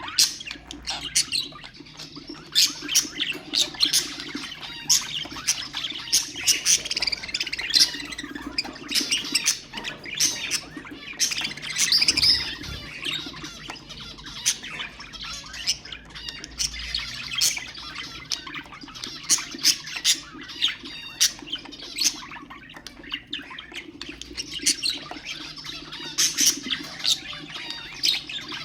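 Budgerigars chattering, a continuous stream of quick, high chirps and squawks with no pause.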